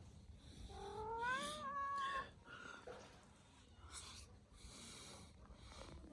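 A kitten meowing: one long meow about a second in, rising in pitch and then levelling off, followed by a few fainter rustling noises.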